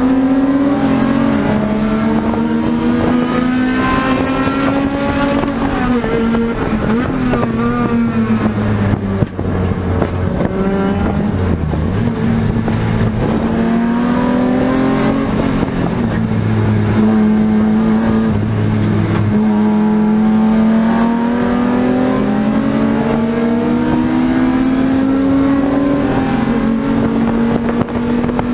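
BMW E36 M3 race car's straight-six engine heard from inside the cabin, revving up through the gears in climbs of several seconds, with quick drops at each shift or braking point. Road and tyre noise sits under it.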